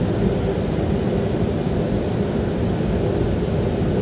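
Steady cabin noise inside a Boeing 737-300 on the ground, its CFM56 engines idling: an even, low rumble.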